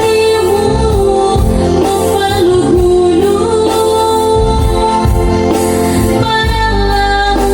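A solo singer performing a slow song over amplified backing music, holding long notes with small sliding ornaments.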